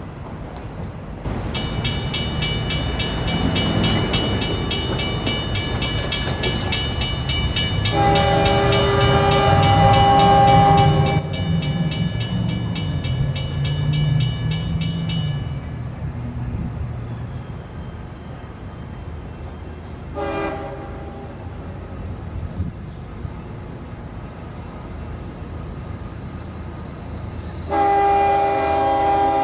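CSX freight diesel locomotives passing and sounding their horns: a long horn chord about eight seconds in, a short blast around twenty seconds, and another long blast starting near the end. A bell rings rapidly through the first half, over the rumble of the passing engines.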